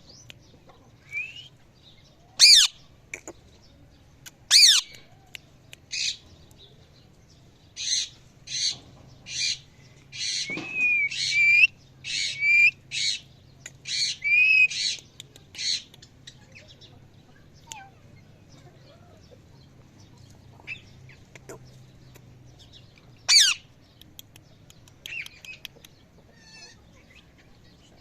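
Indian ringneck parrot squawking. It gives two loud, shrill calls, then a fast run of short repeated squawks lasting about eight seconds, then scattered quieter calls and one more loud squawk near the end.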